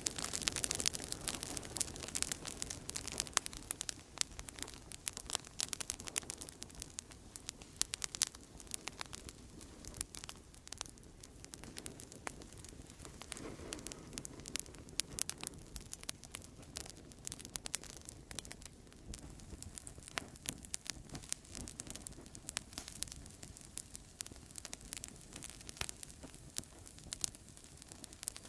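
Outdoor campfire crackling steadily: frequent irregular sharp pops and snaps over a soft hiss.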